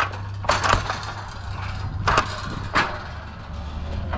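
Wooden pallets knocking and scraping as a loaded pallet is shoved into place, with three or four sharp knocks, over a steady low engine hum.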